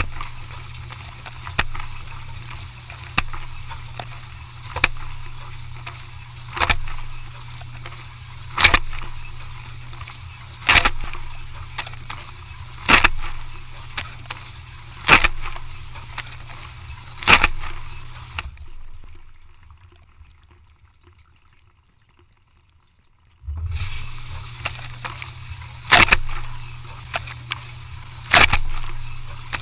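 A machine running with a steady low hum and a sharp knock or crack about every two seconds. Everything fades out for about five seconds after the middle, then comes back in abruptly with the hum and knocks.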